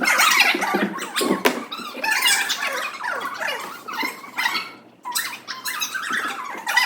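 Many children's high-pitched shouts and squeals overlapping, with a couple of sharp knocks in the first two seconds and a brief lull about five seconds in.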